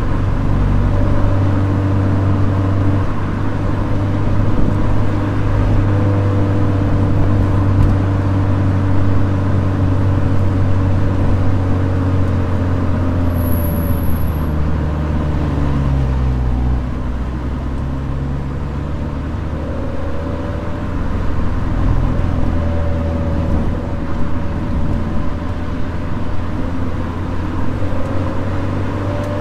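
Toyota 86's flat-four boxer engine running with the car under way, its note sinking gradually, dipping lower about two-thirds through, then climbing again.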